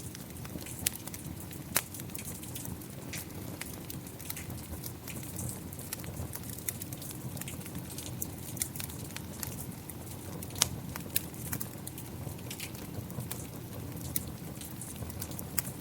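Wood fire crackling, with frequent sharp pops and a few louder snaps, over the steady patter of falling rain.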